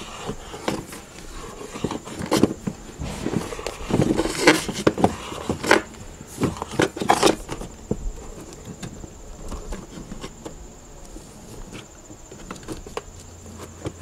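Heavy rubber-jacketed RV power cord being pulled and worked through the inlet hole in metal siding, scraping and bumping against the metal ring in irregular knocks and rustles, busiest in the first half and quieter after. A faint steady high tone runs underneath.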